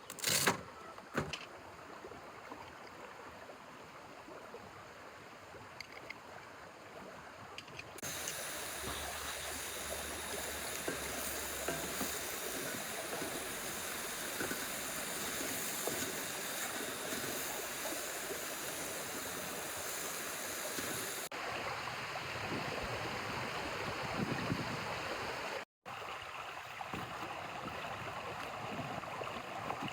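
A river running: a steady rushing of water that gets louder about eight seconds in and shifts again twice later on. A sharp knock at the very start is the loudest moment.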